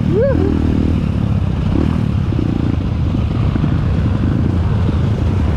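Trail motorcycle engine running steadily at low revs, with clatter. A brief rising-and-falling whoop sounds just after the start.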